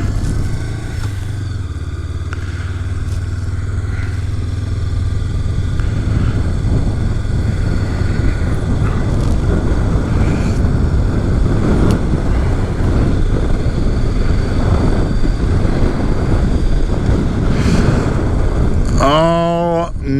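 Honda CB500X parallel-twin engine running steadily on the move, under a heavy rumble of wind and road noise that grows a little louder through the ride. A voice comes in near the end.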